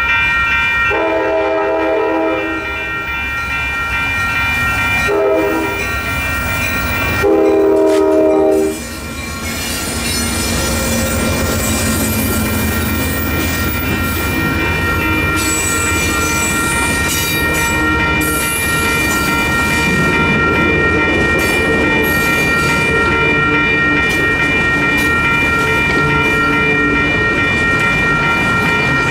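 Railroad crossing's electronic bells ringing steadily while an Amtrak P42DC locomotive sounds its horn three times: a long blast, a short one, then a long, loudest blast ending about nine seconds in. The passenger train's cars then roll by with steady wheel rumble and clatter.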